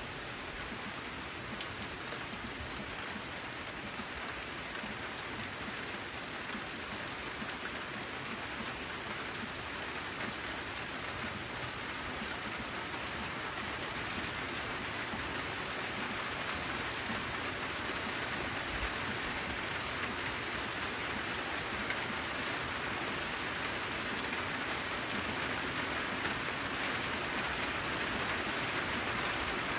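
Steady rain falling, a dense patter of drops that gradually grows a little louder.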